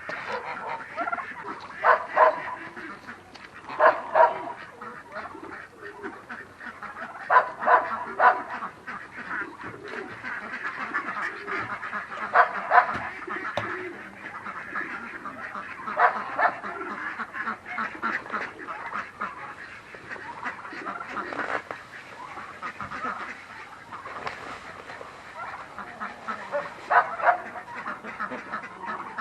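A flock of hungry farm poultry, ducks among them, calling over one another in a constant chatter, with loud honks and quacks standing out every few seconds.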